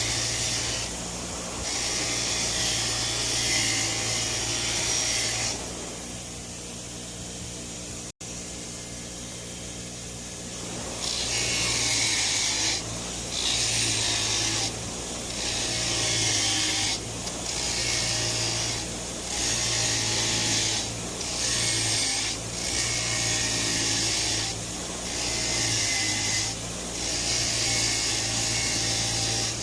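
Power-driven wire wheel scrubbing a metal gasket surface clean. The motor hums steadily while the wire bristles rasp against the metal in passes of about two seconds with short breaks. For several seconds near the start the rasp drops away and only the spinning wheel's hum is left.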